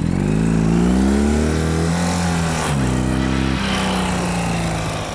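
A vehicle engine revs up quickly and holds high revs, then drops in pitch in two steps about three seconds in and runs on steadily at lower revs.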